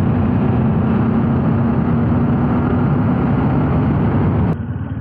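Bajaj Dominar 400's single-cylinder engine running steadily under way, holding one even pitch. It ends abruptly about four and a half seconds in, giving way to a much quieter background.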